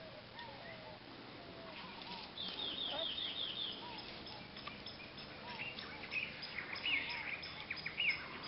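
Birds calling: repeated short down-slurred notes, a quick run of about six high falling chirps about two seconds in, and higher falling calls through the second half.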